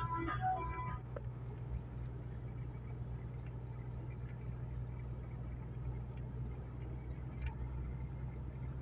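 Truck engine running with a steady low drone. Music breaks off about a second in.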